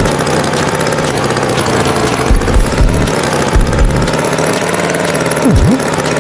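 Tractor engine running with a rough, steady chugging, and two quick low swooping sounds near the end.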